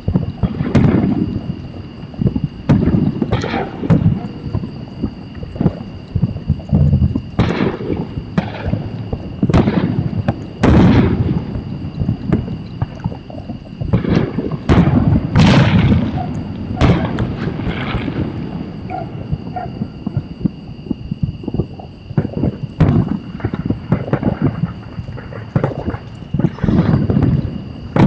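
Fireworks going off: a run of irregular bangs and crackles, one every second or so, some with a low rumble, over a faint steady high-pitched tone.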